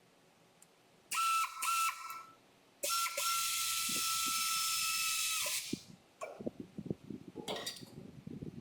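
Compressed air hissing out of a pneumatic shop tool with a steady whistling tone, in a short broken burst and then a steady burst of about three seconds. It is followed by quick, uneven clicking and knocking.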